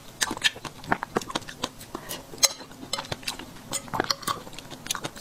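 Close-miked wet chewing of golden kiwi fruit: many small squelching clicks and crackles from the mouth, with a metal fork clinking against a ceramic plate.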